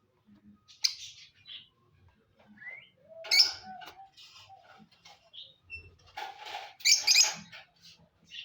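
Indian ringneck parrot calling: several short, scratchy squawks and chirps, the loudest about three seconds in and another cluster near seven seconds.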